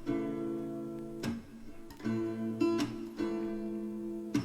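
Background music: acoustic guitar strumming chords about once a second, each left to ring out between strums.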